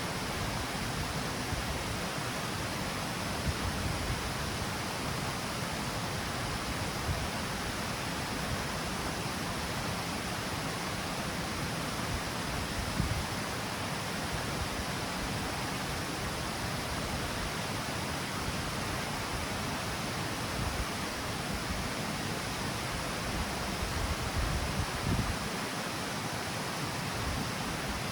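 Water pouring steadily down the stepped cascade of a river, an even, unbroken rush.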